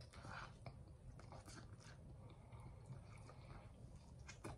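Faint chewing of a mouthful of burger, with scattered soft wet mouth clicks.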